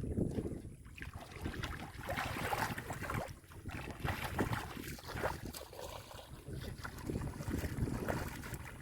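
Shallow muddy water splashing and sloshing in irregular strokes, with a low rumble of wind on the microphone.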